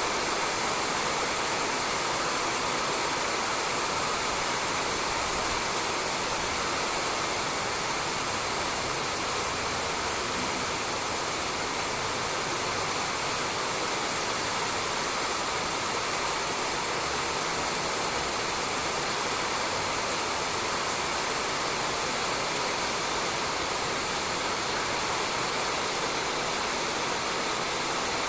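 Rain falling steadily on a roof, a constant even hiss of drops.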